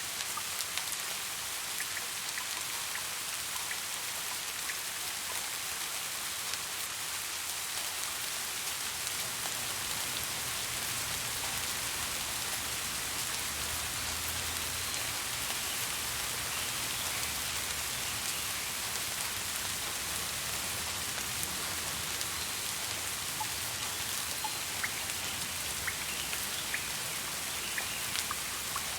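Steady rain falling, a dense even hiss with small sharp raindrop ticks scattered through it, and a faint low rumble for several seconds in the middle.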